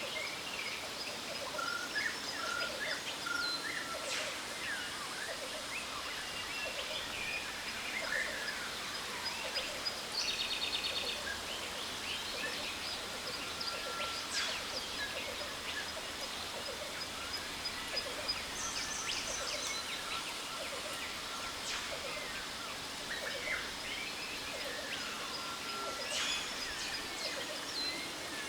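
Jungle ambience: many birds chirping, whistling and calling in short sweeps over a steady, even rush of falling water from a waterfall, with a quick rattling trill about ten seconds in.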